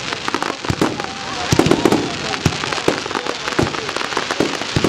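Fireworks display: rapid, irregular bangs and crackles of shells bursting, several every second.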